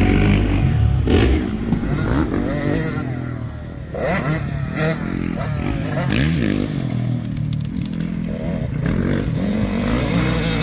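Several motocross dirt bikes riding at once, their engines revving up and falling back again and again as they throttle on and off.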